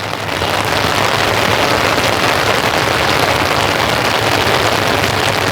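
Steady rain falling and pattering close overhead on an umbrella, a dense even hiss, with a low steady hum underneath.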